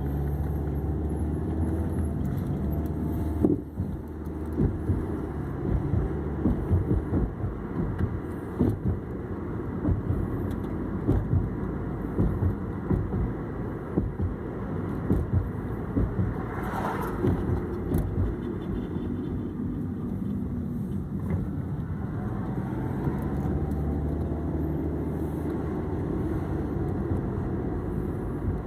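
2006 Hyundai Accent running, with a steady low rumble and irregular knocks and rattles, and a grinding noise from the driver-side wheel.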